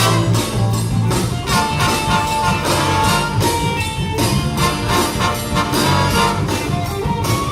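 Live big band playing a number, brass section over a rhythm section with a steady beat.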